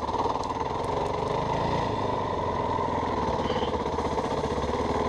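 Yamaha WR450F single-cylinder four-stroke dirt bike engine running steadily under way, the engine speed holding even.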